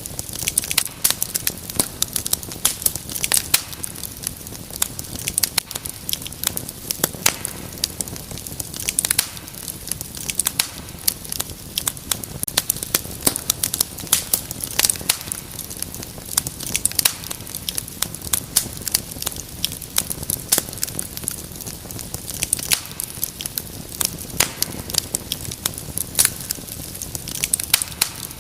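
Wood fire crackling and popping steadily, with many sharp irregular snaps over a soft hiss.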